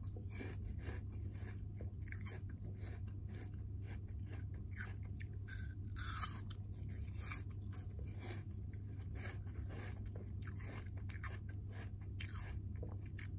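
Close-miked crunching and chewing of a crisp apple slice: a loud bite just at the start and another about six seconds in, with steady chewing between and after. A low steady hum lies underneath.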